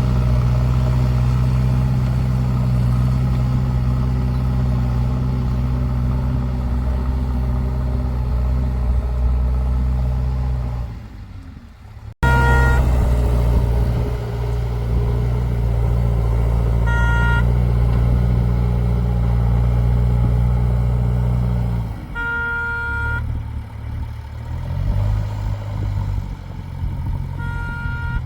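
Heavy tractor or backhoe engine running steadily, with a vehicle horn honking four times; the third honk is the longest, about a second. The engine note drops away after about 22 seconds.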